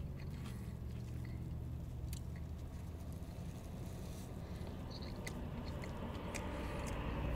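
A man quietly chewing and biting into a soft roast beef sandwich, with a few faint wet mouth clicks, over a steady low hum in the car.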